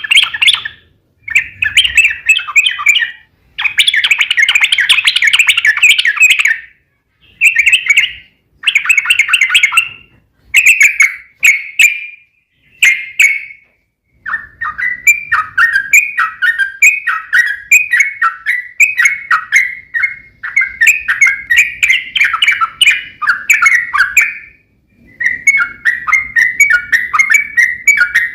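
Yellow-vented bulbul (trucuk) singing loud chattering song. At first it comes in separate bursts a second or two long with short pauses between them; about halfway it turns into a long, nearly unbroken run of rapid repeated notes.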